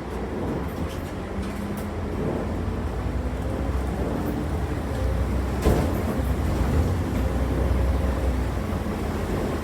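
Inside a moving city bus: steady engine and road rumble with a faint changing drivetrain hum, and a single sharp knock from the cabin a little over halfway through.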